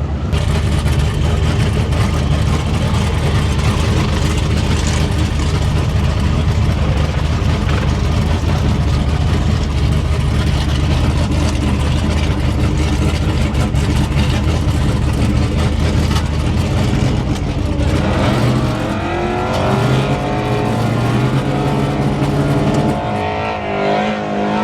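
Supercharged 6-litre LS V8 (8-71 blower, mechanical injection) in an HG Holden wagon burnout car, running loud and steady. In the last several seconds it revs up and down.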